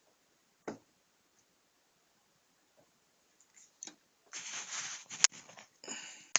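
Handling noises from small objects being picked up and moved. There is a single sharp click about a second in, then from about four seconds rustling and rummaging with a few sharp clicks.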